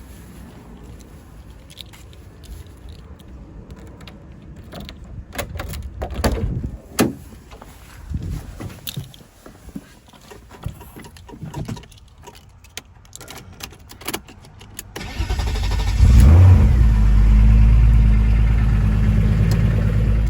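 Scattered knocks and clicks, then about fifteen seconds in a car engine is started. It flares up briefly and settles into a steady idle.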